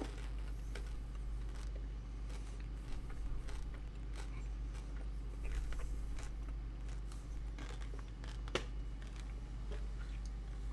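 Faint chewing and crunching of candy-shelled M&M's with a firm crème centre, over a steady low hum, with one sharp click about eight and a half seconds in.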